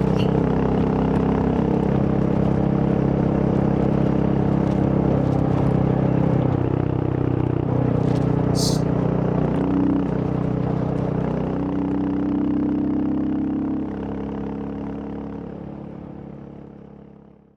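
Royal Enfield Hunter 350's single-cylinder engine running as the motorcycle is ridden, its pitch shifting a few times with speed, with a brief hiss about eight seconds in. The sound fades out over the last few seconds.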